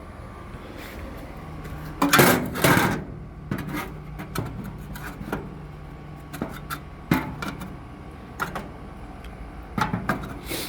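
Metal grill parts clattering as they are set back into a propane gas grill: a loud clatter about two seconds in, then scattered lighter knocks.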